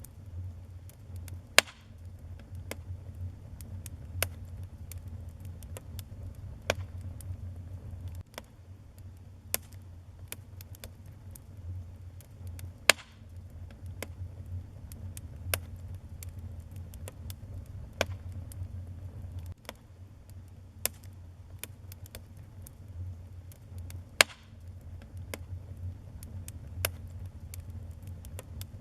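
Wood fire burning in a fireplace: a steady low rumble of flames with frequent sharp crackles and pops, three of them much louder than the rest.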